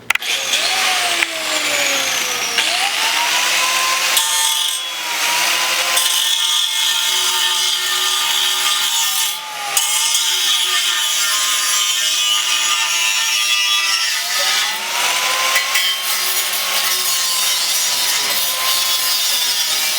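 Power tool cutting through a metal exhaust hanger: a continuous rasping cut whose motor pitch sags under load and recovers, with a brief break about nine and a half seconds in.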